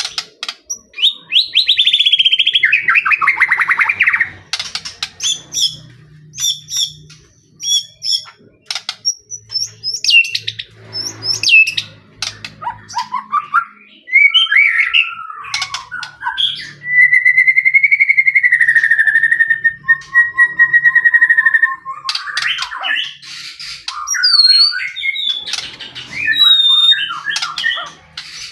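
White-rumped shama in vigorous, varied song: a fast trill falling in pitch near the start, a run of sharp clicking and chipping notes, then a clear whistle held for about four seconds before dropping lower, followed by high whistled phrases.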